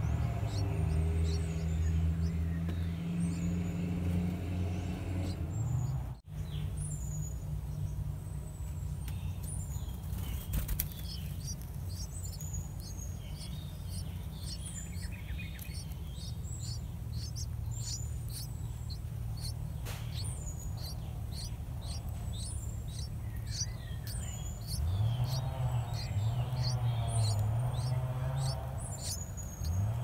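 Short, high bird chirps repeated throughout, over a loud low hum. The hum swells with a wavering pitch at the start and again near the end. The sound drops out for a moment about six seconds in.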